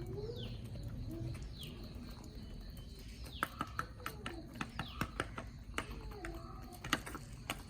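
Backyard chickens feeding: high falling chirps repeat every second or so over soft low clucks. From about three seconds in, sharp clicks and taps come irregularly, as if the birds are pecking at the food.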